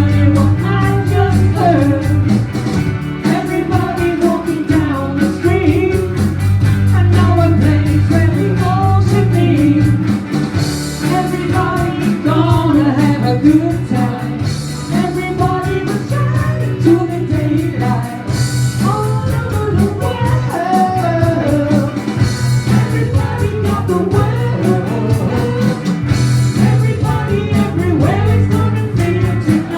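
Live band music: a singer over guitar, a steady bass line and drums, with a cymbal wash about every four seconds.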